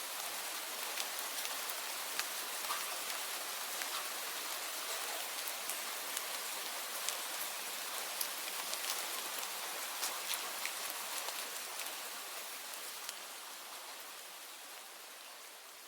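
Steady rain, a dense hiss with distinct drops ticking through it, fading out gradually over the last few seconds.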